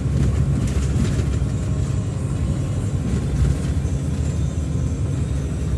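Four-wheel-drive vehicle driving, heard from inside the cabin as a steady low rumble.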